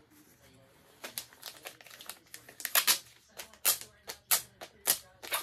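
Thin plastic protective film crinkling and crackling as it is handled and peeled off a sublimation magnet blank, a quick run of sharp clicks and rustles starting about a second in.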